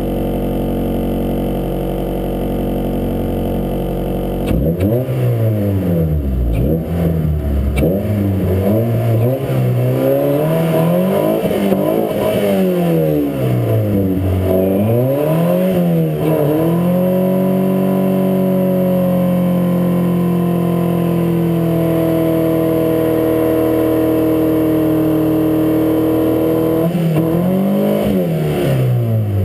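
Honda Accord race car's engine idling, then revved up and down again and again from about four seconds in. It is then held at steady high revs for about ten seconds in a second-gear burnout in snow, before rising and falling again near the end.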